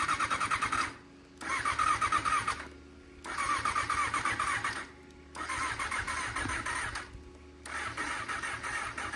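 Electric starter of a Honda Jade 250 four-cylinder motorcycle cranking in five short presses without the engine catching. The later presses are a little weaker, a sign of a flat battery.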